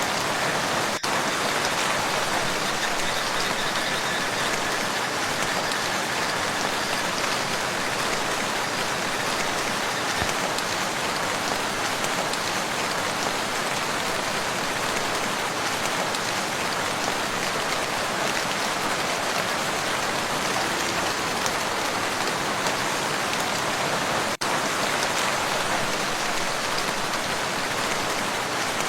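Steady rain falling on a lake and its shore: an even hiss of many drops, with a momentary dropout about a second in and again near the end.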